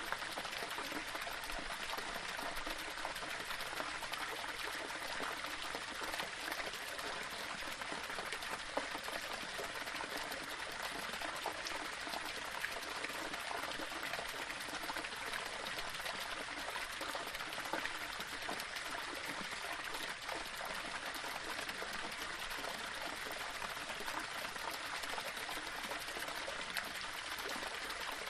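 Small waterfall splashing and trickling over rocks in a steady, continuous flow.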